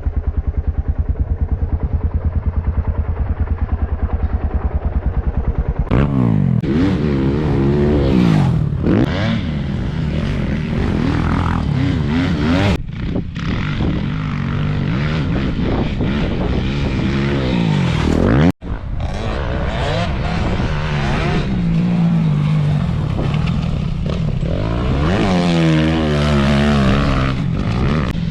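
Motocross bike engine, first running with an even low pulse, then revving and pulling hard, its pitch rising and falling again and again with throttle and gear changes. There is a momentary cut-out about eighteen seconds in.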